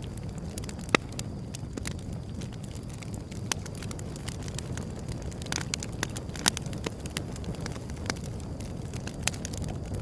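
Wood fire burning with a steady low rumble and irregular sharp crackles and pops, the loudest pop about a second in.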